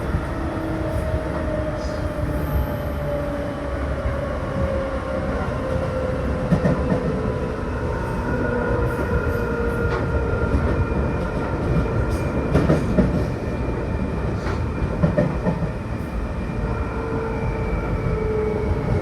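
Running sound inside a Seibu New 2000 series electric commuter train: a steady rumble of wheels on rail with occasional clicks over rail joints, and a motor whine that falls slowly in pitch as the train slows.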